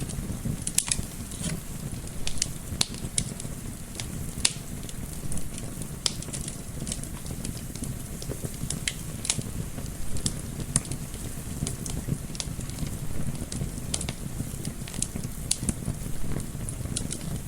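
Wood fire in a fireplace crackling, with frequent irregular sharp pops, over a steady low rumble of gentle wind.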